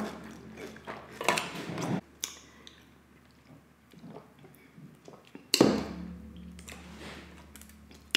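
Close-miked chewing of crispy fried chicken wings, with a quiet stretch in the middle and a sudden louder burst of chewing about five and a half seconds in that fades over the next couple of seconds.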